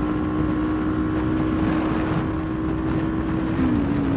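Kawasaki Ninja 400's parallel-twin engine cruising at a steady highway speed, its note dipping slightly near the end, with wind rushing over the microphone.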